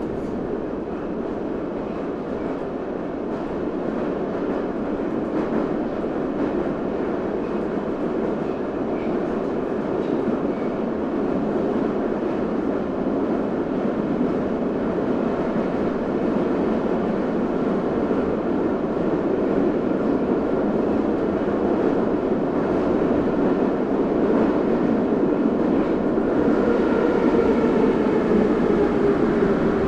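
New York City subway train running: a steady rumble of wheels on track that grows slowly louder. Near the end a whine comes in and falls in pitch.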